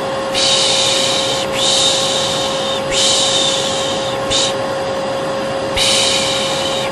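Vacuum cleaner running with a steady hum, overlaid with a person's repeated 'shh' shushing ('pış pış'), each hiss about a second long, coming one after another with a short pause before the last. It is the soothing shush-and-vacuum white noise used to calm a baby.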